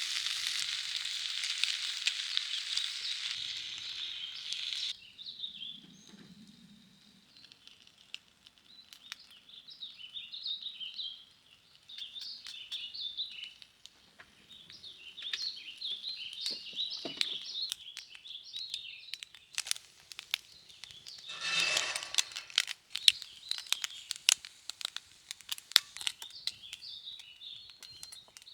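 Food sizzling in a hot pan that cuts off sharply about five seconds in. Small birds then chirp and warble over scattered clicks and crinkling, with a louder rustle of handling a little past the middle.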